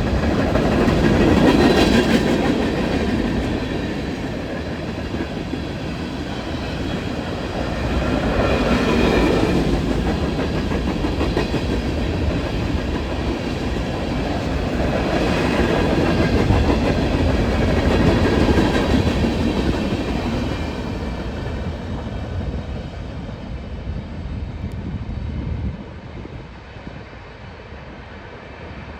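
Empty coal hopper cars of a freight train rolling past, wheels clicking over the rail joints, the sound swelling and easing in waves. It drops off sharply near the end.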